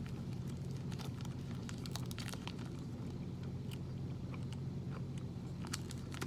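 A person chewing a peanut butter dark chocolate protein bar, with scattered small crunches from the nuts and crisp rice pieces in it. A steady low hum runs underneath.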